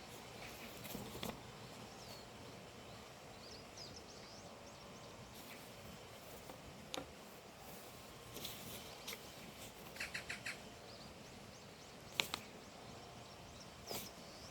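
Scattered short bird chirps over a steady background hiss, with a few sharp clicks and a quick run of four short notes about ten seconds in.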